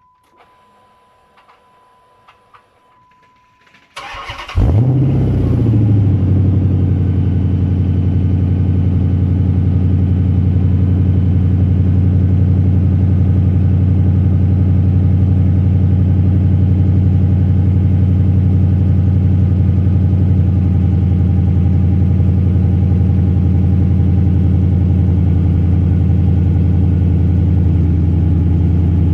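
Dodge Magnum SRT8's 6.1-litre Hemi V8 cold-starting: after about four seconds of near quiet with a faint steady tone and a few small clicks, the starter cranks briefly, the engine catches with a short rev flare, then settles into a loud, steady idle.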